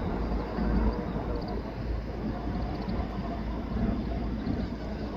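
Jet airliner engines heard from an airport's edge: a steady noise weighted heavily toward the low end.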